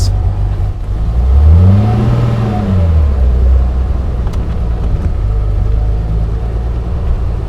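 1955 Mercedes 300 SL's 3.0-litre straight-six running at low speed. A little over a second in, the revs rise and fall once, then it settles back to a steady low running note.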